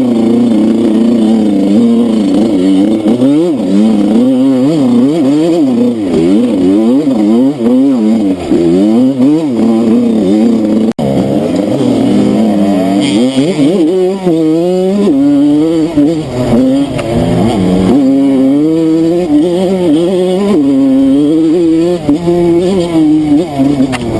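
Small off-road motorcycle engine being ridden, its pitch rising and falling again and again as the throttle is opened and closed. There is a short break about halfway through.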